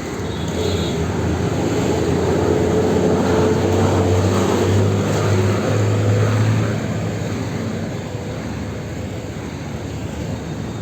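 Street traffic with a motor vehicle's engine drone that swells over a few seconds and fades again about seven seconds in, as it passes.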